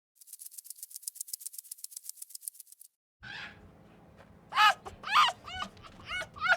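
A fast run of dry, rattling clicks, then after a short gap a young dog, likely a puppy, yipping and whining in short calls that rise and fall, about two a second and growing louder.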